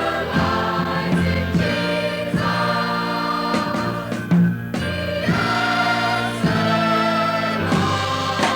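A vocal group sings held chords in a gospel style over instrumental backing, with a few percussion hits.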